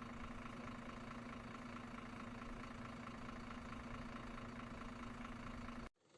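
Steady engine-like idling hum from a remote-control model vehicle, with one strong steady tone; it cuts off abruptly near the end.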